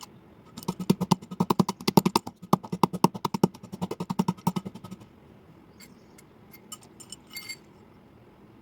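Slate pencil being chewed close up: a fast run of crisp crunches for about five seconds that stops abruptly, followed by a few faint single clicks.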